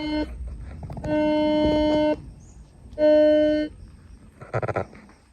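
Horn-like steady toots at one unchanging pitch, each lasting about a second, sounding three times, followed by a short, fast-pulsing sound near the end.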